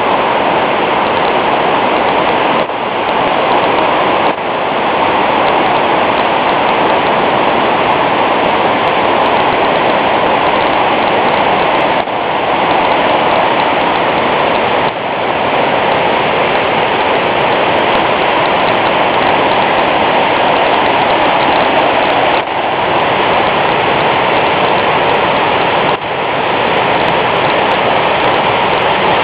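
Floodwater rushing through opened flood gates: a loud, steady rush of water that dips briefly in level now and then.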